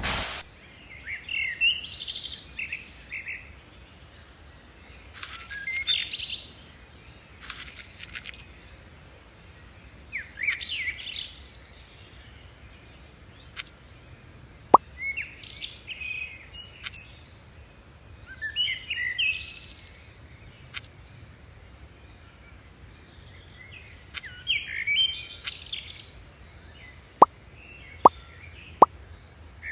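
Small birds chirping in short twittering phrases that recur every few seconds. A few sharp clicks cut in: one about halfway through, then three about a second apart near the end.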